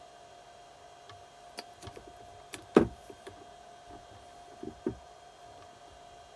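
Scattered light metallic clicks and knocks from engine parts being handled during cylinder head and cam chain refitting, with one sharper knock about three seconds in and two more near the end, over a faint steady hum.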